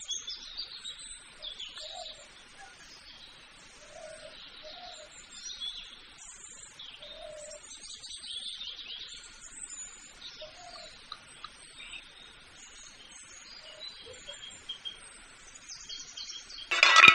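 Birds chirping and twittering in the background, many short calls overlapping. Right at the end comes one brief, much louder sound.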